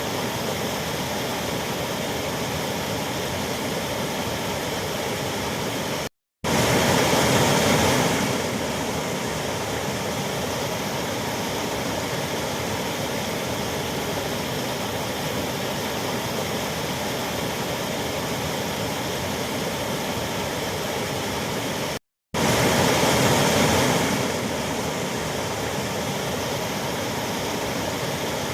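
A waterfall's steady rush of falling water. It cuts out completely for a moment twice, and each time comes back louder for a couple of seconds before settling.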